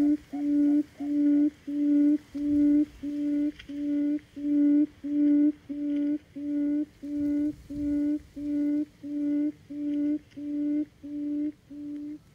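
Buttonquail calling: a long, even series of low hoots at one pitch, nearly two a second, fading slightly toward the end and stopping just before it ends.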